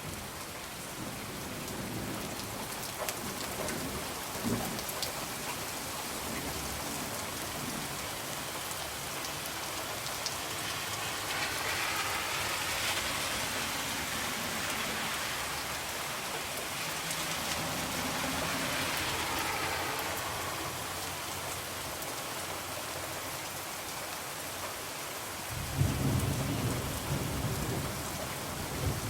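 Steady rain pattering on a window, growing heavier in the middle and easing again, with faint crackles from a wood fire. Near the end a low rumble of thunder comes in suddenly.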